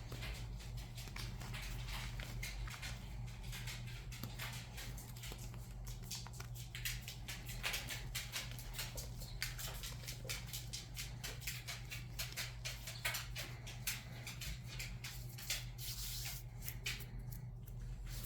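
Crunchy reformed chalk blocks being crushed and crumbled by hand: a dense, irregular crackling of many small crunches and clicks, growing more frequent and sharper after the middle. A steady low electrical hum lies underneath.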